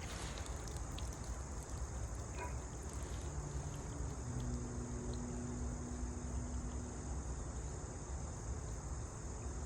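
Steady high chirring of insects such as crickets, unbroken throughout, with a faint low hum that comes and goes in the middle.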